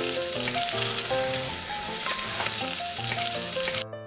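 Egg-battered beef slices (yukjeon) sizzling in hot oil in a nonstick frying pan: a steady, loud hiss that cuts off suddenly near the end.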